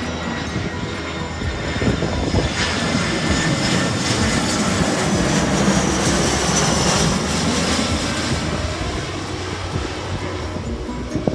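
Jet airliner passing close by, its engine noise swelling to a loud peak about halfway through, with a high whine at the peak, then fading away.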